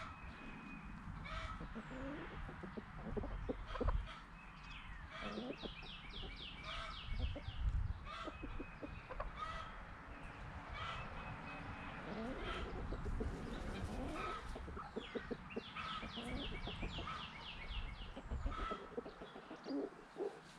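A flock of chickens clucking and calling, with two long runs of rapid chattering calls and a few low thumps.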